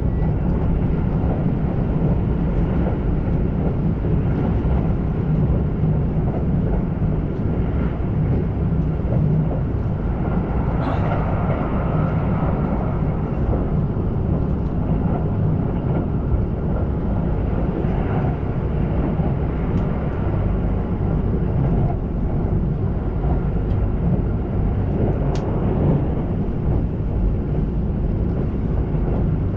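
Kintetsu passenger train running at speed, heard from inside the car: a steady low rumble of wheels on rail with a few faint clicks.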